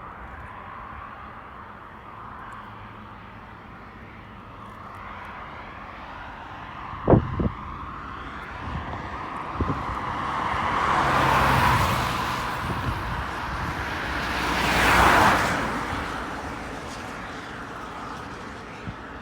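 Jet airliner passing along the runway: a rushing engine roar swells up to a peak in the middle, peaks again a few seconds later, then fades back to a steady low hum. A sharp knock about seven seconds in.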